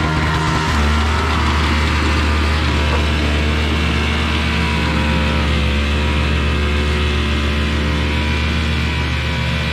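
MTD snow blower's small gas engine running steadily, with a slight shift in its note about midway.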